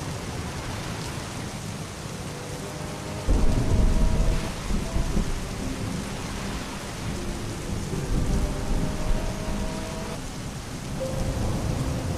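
Steady heavy rain with rolling thunder. A loud low rumble breaks in suddenly about three seconds in and keeps rolling, swelling again twice before the end.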